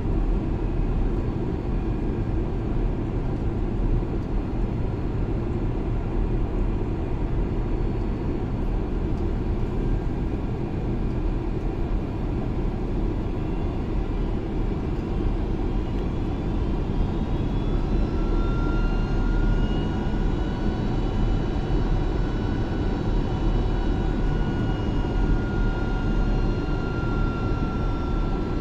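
Airliner jet engines and airflow, a steady roar heavy in the low end. About two-thirds of the way through, a thin engine whine comes in, rising slightly and then holding.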